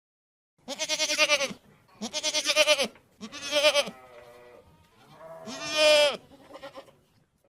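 A goat bleating four times, each bleat a wavering call under a second long, the last one the loudest.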